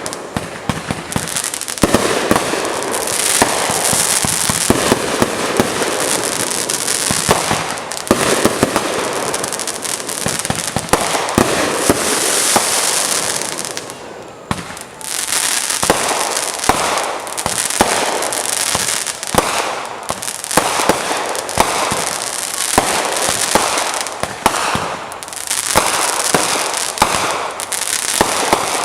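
Fireworks crackling and popping in a dense, rapid string over a fizzing hiss, with a brief lull about halfway through.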